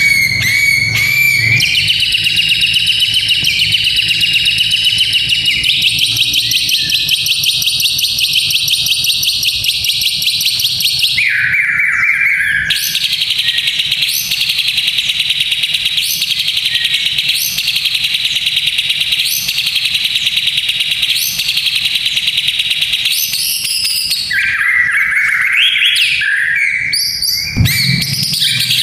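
White-rumped shama (murai batu) singing in fighter style. It gives long, very rapid rattling trills (kretekan) with a regular accent about once a second, broken twice by lower, clear whistled phrases.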